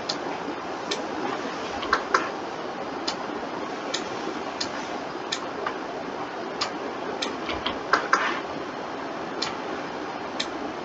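Computer mouse and keyboard clicks, sharp and irregular, about one a second with a few quick doubles, over a steady background hiss.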